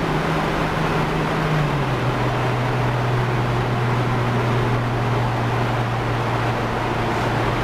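Car engine droning steadily under tyre and wind noise at highway cruising speed. The engine note steps down slightly about two seconds in.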